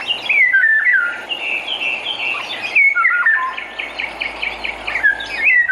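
Oriole singing: whistled notes that slide down in pitch, with a quick run of short repeated notes in the middle.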